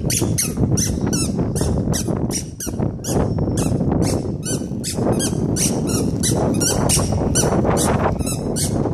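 Short high-pitched squeaks repeating evenly, about three a second, over low wind noise on the microphone.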